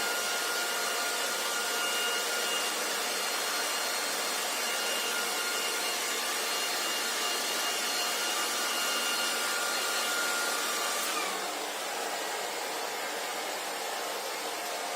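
Handheld hair dryer running with a steady blowing hiss and a high motor whine. About eleven seconds in the whine slides down in pitch and the airflow gets a little quieter, as the dryer drops to a lower speed.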